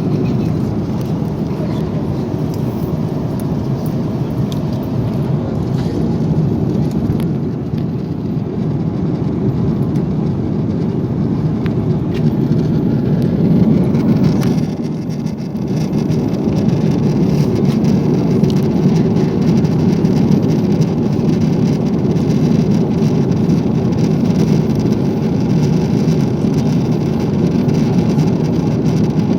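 Steady cabin noise of an Airbus A340 airliner: a low, even rumble of engines and airflow, dipping briefly about halfway through.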